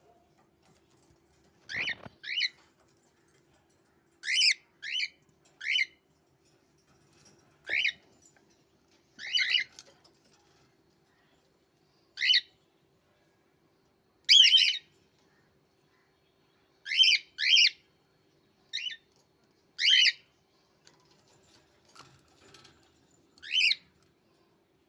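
Pet bird calling: about fourteen short, sharp calls at irregular intervals, some in quick pairs.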